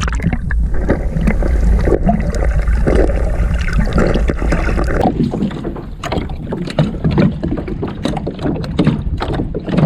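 Wind rumbling on the microphone aboard a fishing kayak, heavy for about the first five seconds and then easing, with water splashing at the hull and many irregular small knocks and clicks of gear handling.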